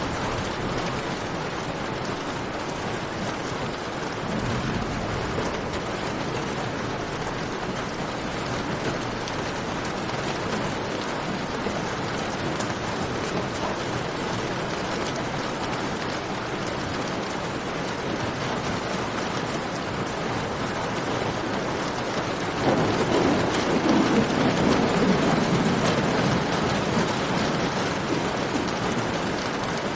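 Steady rain falling, mixed with the light crackle of a campfire. Past the two-thirds mark a low rumble swells up for a few seconds, louder than the rain, then fades back.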